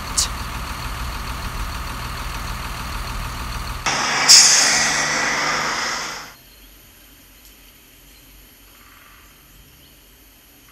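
A steady low engine rumble, like a large vehicle idling. It stops about four seconds in, and a loud hiss of released air, like an air brake, follows and fades away over about two seconds.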